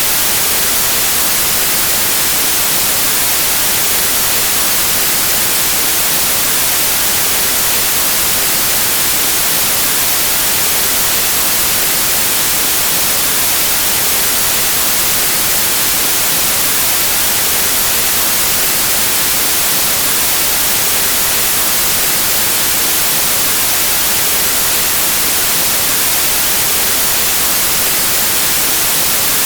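Steady white noise: an even, unbroken hiss of static at a constant loudness.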